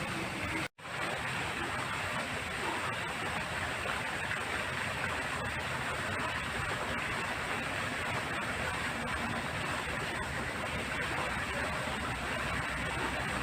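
Steady rushing noise, broken by a brief total dropout under a second in.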